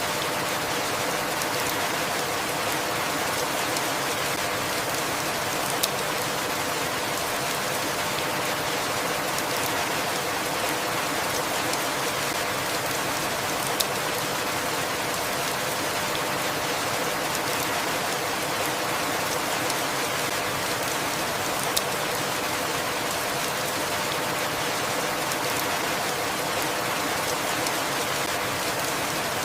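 Steady, even rainfall, with a few single sharp ticks of drops striking a hard surface, about eight seconds apart.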